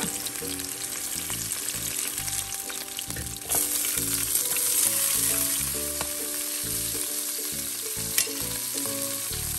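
Vegetables frying in hot oil in a skillet on high heat: first onion strips being stirred and lifted out with a metal slotted spoon, then sliced bell peppers tipped into the oil about three and a half seconds in, where the sizzle suddenly gets louder and stays so.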